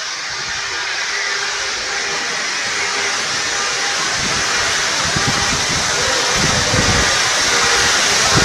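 Heavy rain and hail pouring down in a steady loud hiss that slowly grows louder, with wind buffeting the microphone in gusts from about halfway through.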